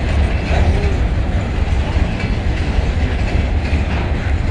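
Train moving along the track, a steady, loud, deep sound with no pauses.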